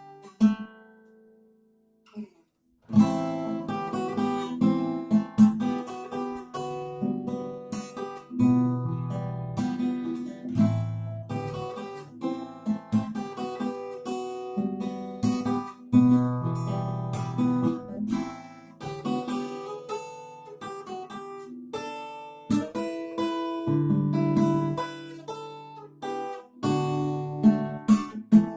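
Solo acoustic guitar played fingerstyle: a plucked melody over picked bass notes. A short pause comes near the start before the playing resumes.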